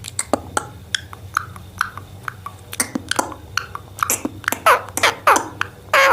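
Indian ring-necked parakeet making a rapid string of beak and tongue clicks and short chirps, breaking into louder, pitch-bending chattering calls near the end.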